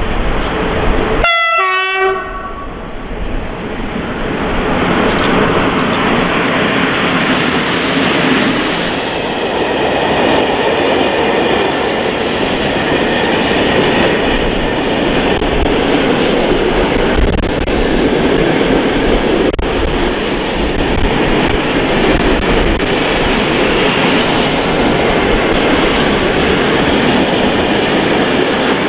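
A freight locomotive gives a short horn blast about a second in. Then a long freight train of open-top wagons rolls past close by, with steady wheel noise and clatter over the rail joints.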